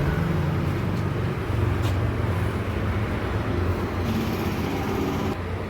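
Car engine running with a Sanden A/C compressor turning, its faulty bearing adding to a steady mechanical running noise. A high hiss joins about four seconds in and cuts off suddenly near the end.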